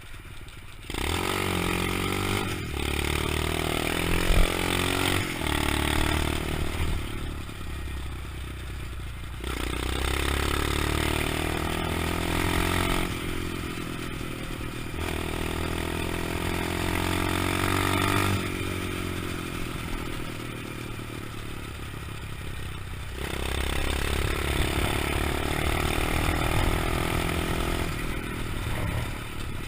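A 125cc pit bike's engine revving and pulling under load, its pitch repeatedly rising and falling as it accelerates and backs off. The sound changes abruptly every few seconds, and a sharp knock comes about four seconds in.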